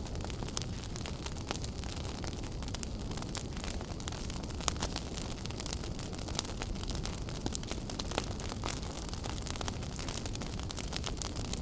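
Wood fire burning in a fireplace: a steady low rumble and hiss of the flames with frequent sharp crackles and pops, one louder pop a little under halfway through.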